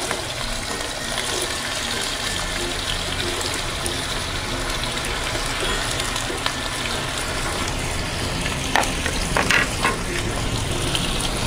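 Sliced raw potatoes frying in hot rice bran oil in a frying pan as they are tipped in: a steady sizzle, with a few short clicks about nine to ten seconds in.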